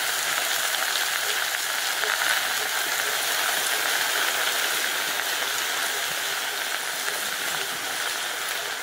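Chopped leafy greens sizzling in a hot pan, a steady even hiss.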